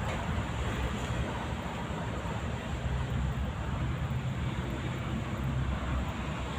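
Steady low rumble with a hiss over it, even throughout with no distinct events.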